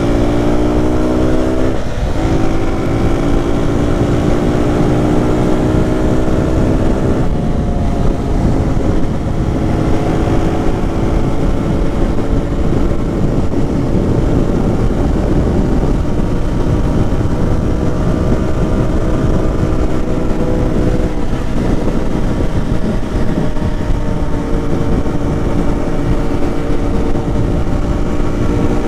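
Lifan KP motorcycle engine pulling up through the gears: its pitch rises and drops back at shifts about two and seven seconds in, then holds fairly steady at cruising speed, under heavy wind noise.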